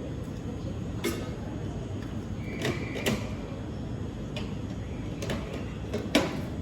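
Station ambience around a standing electric train: a steady low rumble with a handful of sharp clicks and knocks, the loudest near the end, and a brief high beep a little before halfway.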